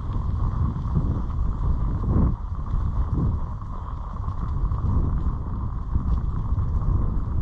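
Wind buffeting the camera's microphone, a low gusty rumble that swells and dips.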